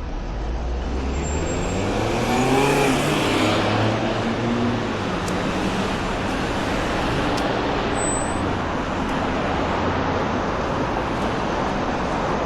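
City street traffic: a motor vehicle accelerates past, its engine note climbing and loudest about three seconds in, then a steady wash of tyre and engine noise from the road.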